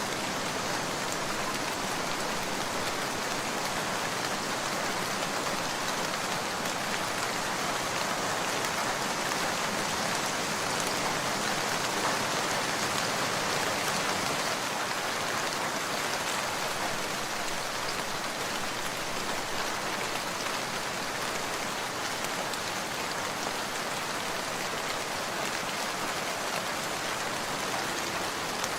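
Steady heavy rain: a dense, even hiss of rainfall with the patter of individual drops.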